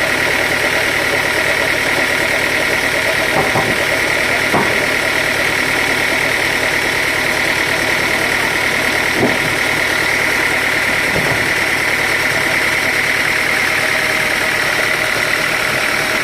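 Sawmill machinery running steadily, an engine-like drone with a strong high band, with a few short knocks about a third of the way in and again past the middle.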